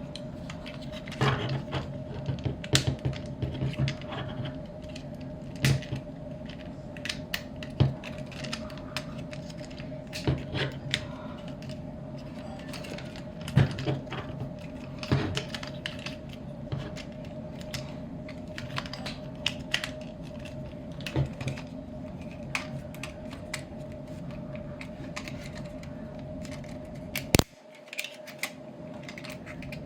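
Irregular plastic clicks and snaps of a Transformers action figure's parts and joints being moved and locked into place during transformation, over a steady low hum. The sharpest snap comes near the end.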